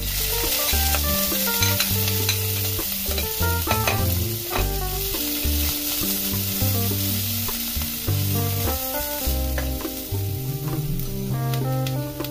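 Sliced chili peppers sizzling in hot oil in a metal wok. The sizzle starts as they drop in, and a metal ladle stirs them with a few sharp clinks against the pan.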